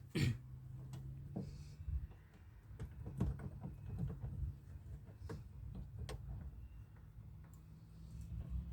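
Scattered clicks, knocks and rattles of metal and plastic parts being handled and worked loose inside a car door, over a steady low hum.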